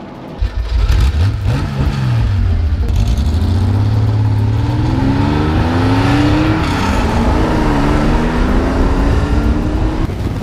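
Porsche Panamera's engine accelerating up a hill, heard from a camera mounted on the car's body with wind and tyre noise. The engine pitch climbs, drops sharply at a gear change about two-thirds of the way through, then climbs again.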